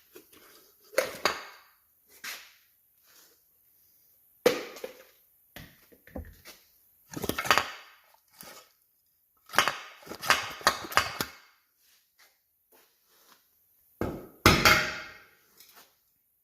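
Hand tools and metal parts knocking and clattering at irregular intervals during suspension work, with a quick run of clanks about ten seconds in and the loudest clatter near the end.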